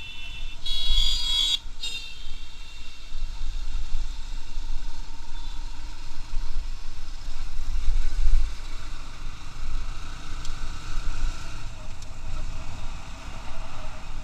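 Riding a Bajaj Pulsar NS160 motorcycle: a steady, uneven low rumble of wind and road noise on the microphone. A horn sounds briefly about a second in.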